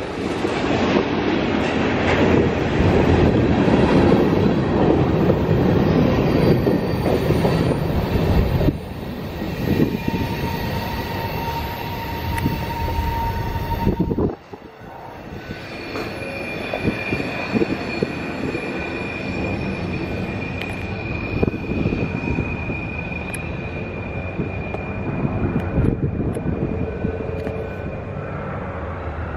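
Manifest freight train of covered hopper cars passing close by, steel wheels rumbling and knocking over the rails. About halfway through the sound drops suddenly and the train is heard from farther off, with a long steady high wheel squeal.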